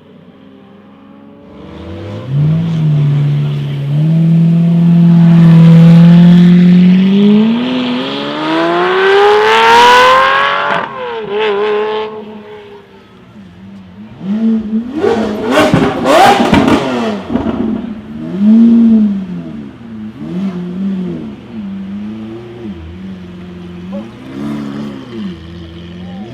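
V12 supercar engine and exhaust: a long hard acceleration with the pitch climbing steadily to a sudden drop about eleven seconds in. Then loud revving with sharp exhaust cracks, followed by a series of about five short rev blips, each rising and falling.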